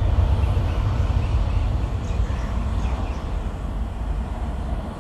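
Airplane taking off: a deep, steady engine and rumble noise that slowly grows quieter.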